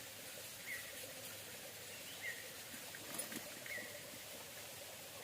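A bird repeating a short, faint call about every one and a half seconds over a steady outdoor hiss.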